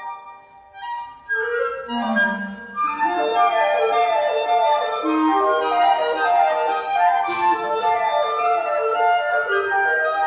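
Woodwind trio of flute, C clarinet and B-flat clarinet playing. After a brief pause the instruments come back in about a second in, a low clarinet note under them, then run into quick overlapping figures.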